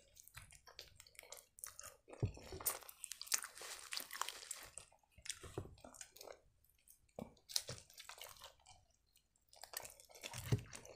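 Someone chewing a bite of store-bought shawarma wrap: wet mouth sounds with small irregular crackles and clicks, pausing briefly a couple of times.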